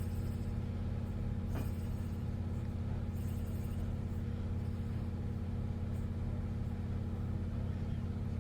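Steady low background hum with a faint tap about one and a half seconds in.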